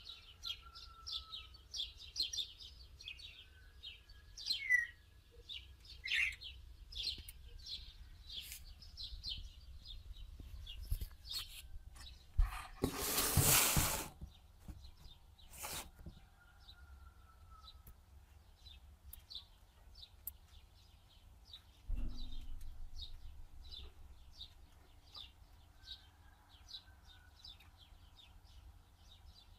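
Birds chirping in quick high notes, several a second, with a few short rising calls. A burst of noise comes about halfway through, and a thump later on.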